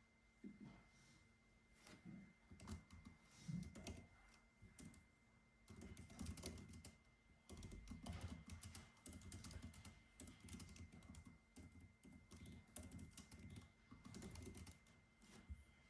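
Typing on a computer keyboard: quick runs of keystrokes broken by short pauses, faint, over a faint steady tone.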